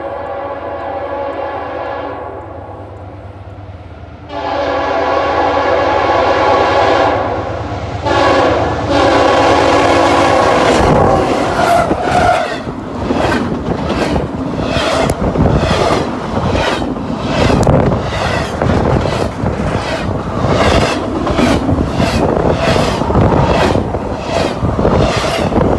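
CSX double-stack intermodal freight train: the lead locomotive's horn sounds several long blasts as it approaches at high speed. About eleven seconds in it passes close by, and the horn gives way to a fast, steady clatter of wheels over the rails and a rush of air as the double-stack cars go by.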